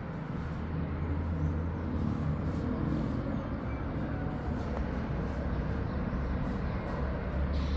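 Steady rumble of road traffic, a continuous wash of vehicle noise.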